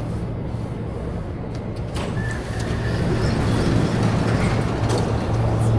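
Shanghai Metro Line 10 train running, heard from inside the carriage: a steady low hum under rumbling noise that grows louder from about halfway through, with a couple of sharp clicks.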